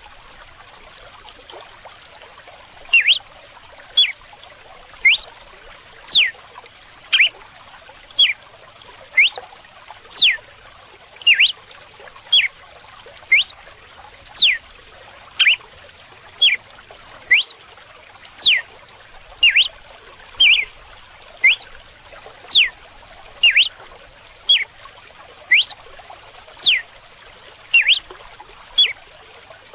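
Red-cowled cardinal singing its whip-like 'açoite' song: sharp whistled notes that fall steeply in pitch, about one a second, mixed with shorter clipped notes. The notes begin about three seconds in. Running water trickles steadily underneath.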